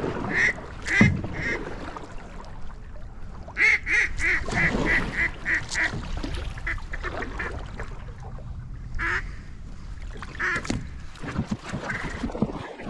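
Duck call blown in a series of about eight quick quacks, with scattered single quacks before and after: hunters calling to ducks that are working the pond.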